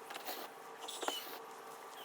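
Work on a wooden shipping crate being opened: scattered light clicks and short rustling hisses, with one brief high squeak about a second in.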